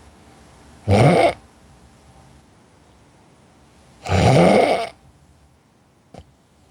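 A person snoring in sleep: a short snore about a second in and a longer one about four seconds in, each rising in pitch. A faint click near the end.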